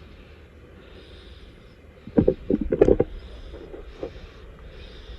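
Jeep crawling over rock at low revs, its engine a steady low rumble, with a quick run of loud clunks and scrapes about two seconds in as it works over the rocks.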